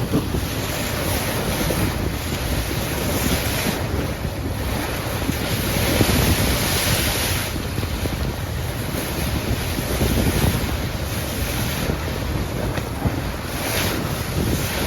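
Wind buffeting the microphone over the rush of a moving ship's bow wave, a steady noise of wind and water that swells now and then.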